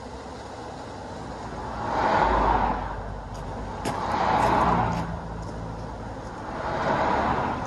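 Three vehicles passing on a road one after another, each swelling up and fading away over a second or two, over a steady background noise.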